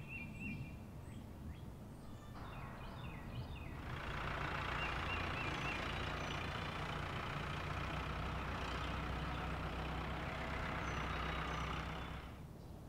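Car engine sound effect running steadily with a low hum, coming in about four seconds in and fading out near the end. A few short chirps come before it.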